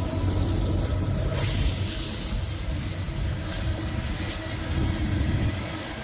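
Loaded coal train rumbling steadily past, with wind buffeting the microphone.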